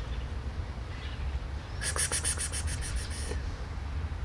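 A bird's rapid chattering rattle about two seconds in: a quick run of about ten sharp, very high clicks lasting a second and a half, over a steady low rumble.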